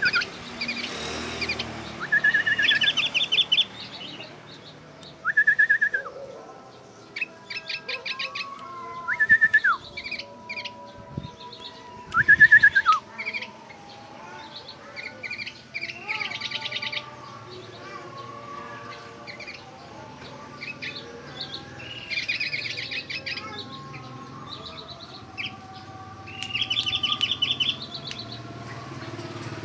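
White-eye (pleci) singing: rapid high chattering trills broken by short, loud whistled notes that rise and fall, about five of them, copied from the sooty-headed bulbul (kutilang) song.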